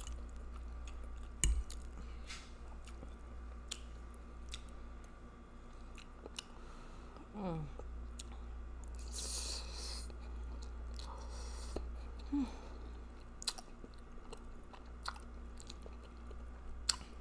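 Close-up wet chewing and mouth sounds of a person eating spaghetti with meat sauce, with scattered sharp clicks of a fork against the plate. About nine seconds in comes a brief hiss as a forkful of noodles is sucked in, and there is a short falling hum a little before it.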